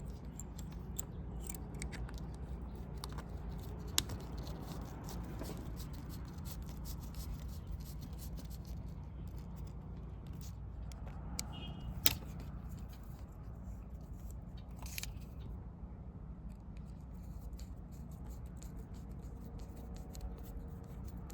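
Scattered light clicks and scrapes of hand tools and small metal parts being handled, over a steady low hum, with two sharper clicks about four and twelve seconds in.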